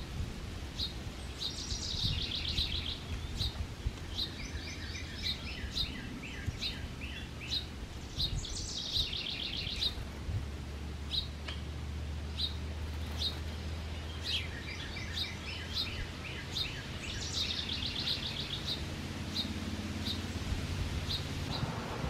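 Songbirds calling and singing: a short high chirp repeated about once or twice a second throughout, with three bursts of rapid trilled song, about two seconds in, about nine seconds in and near seventeen seconds, and runs of falling notes between them. A low steady hum lies under the birdsong.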